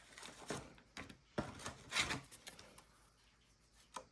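Paper trading cards being handled and slid against one another: a few short rustles and small clicks, busiest in the middle.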